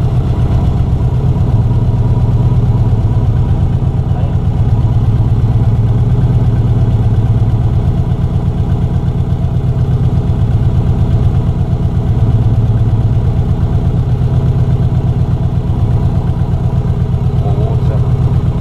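Subaru GC8 Impreza's freshly rebuilt flat-four boxer engine running at a steady idle, with an even pulsing exhaust beat.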